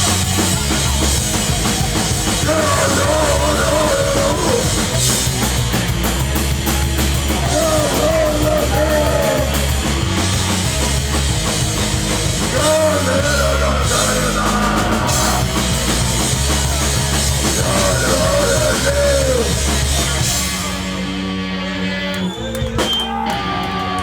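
Live hardcore punk band playing loud: drum kit, distorted guitars and bass, with a phrase repeating about every five seconds. Near the end the drums stop and the guitars ring on with held notes.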